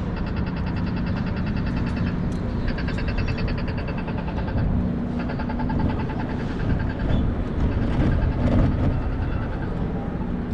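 A warning bell ringing in rapid repeated strokes, in three bursts of about two seconds each, over a steady rumble of street traffic and wind.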